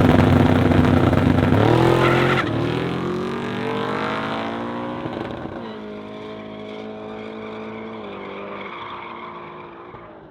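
Drag race car accelerating hard down the strip, its engine pitch climbing and then dropping sharply at gear changes about two and a half and six seconds in. It fades steadily as the car pulls away.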